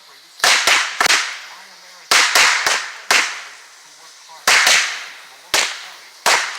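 Wolf Pack firecrackers exploding in a chain: about a dozen sharp, loud bangs at uneven intervals, some in quick pairs and triples, each one dying away briefly after.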